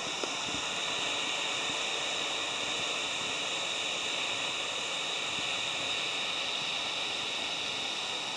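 Waterfall: a steady, unbroken rush of falling water, a constant hiss strongest in the high range.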